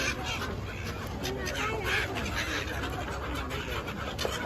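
A flock of gulls calling, many short overlapping cries, with people's voices in the background.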